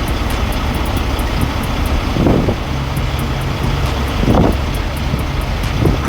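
Steady low drone of a truck's diesel engine idling, with noise over it and three short louder noises at about two, four and six seconds in.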